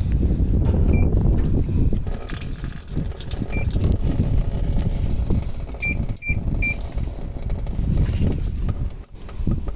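Top-loading washing machine running, its tub churning water with a rough, steady rumble. Short electronic beeps come from the control panel, once about a second in and then in a quick run of three near the middle.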